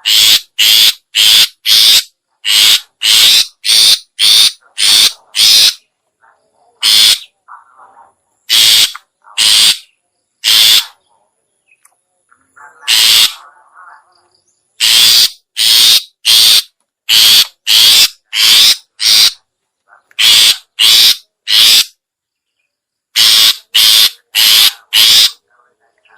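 Long-tailed shrike (cendet, pentet) call used as a bird lure: harsh, short notes repeated about two a second in runs, with brief pauses between the runs.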